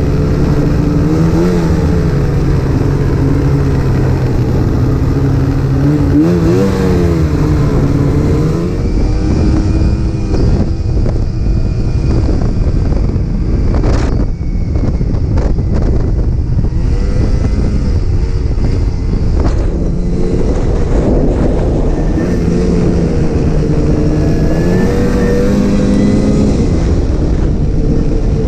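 Snowmobile engine running at speed, its pitch rising and falling several times as the throttle changes, over a steady rushing noise.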